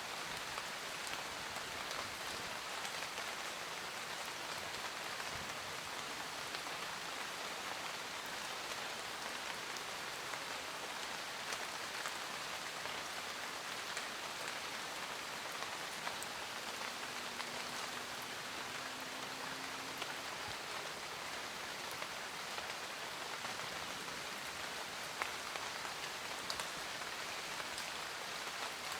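Steady rain falling, with many small drop ticks on surfaces close by. A faint low hum rises slightly in pitch about halfway through.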